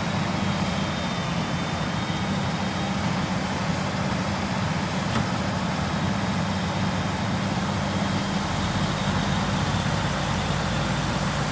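Heavy diesel engine running steadily at an even pitch, with no revving.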